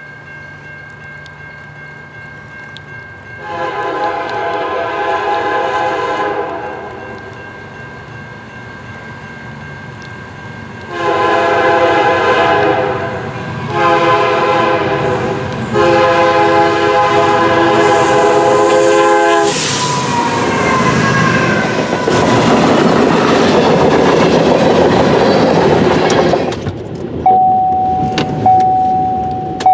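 CN freight locomotive's multi-chime air horn sounding one long blast, then after a pause three more: long, shorter, long. The locomotive then passes in a loud rush of engine and wheel noise, and a steady single high tone starts near the end.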